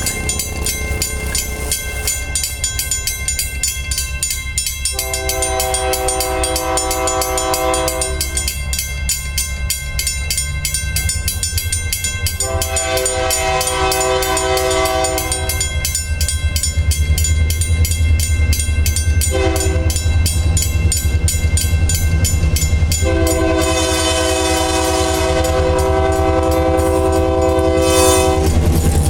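Passing dinner train led by an EMD GP9 diesel locomotive, its engine rumbling and its wheels clicking evenly over the rail joints. The locomotive air horn sounds a chord in two long blasts, one short and one long, the grade-crossing signal.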